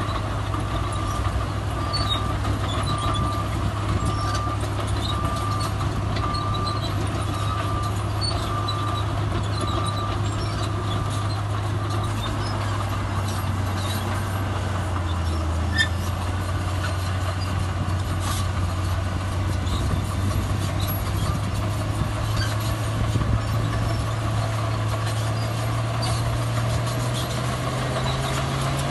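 Heavy diesel earthmoving machinery running steadily, with a reverse alarm beeping about once a second for roughly the first ten seconds. Near the end the engine revs up, its pitch rising.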